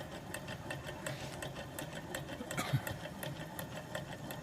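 John Bold Sr.'s propane-fired Stirling hot air engine running smoothly, with a light, even clicking about four to five times a second from its moving parts.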